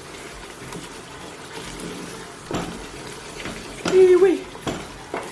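A spoon stirring vegetable soup in a hot pot over a steady low sizzle, with a few scrapes and knocks of the spoon against the pot. The loudest of these come about four seconds in.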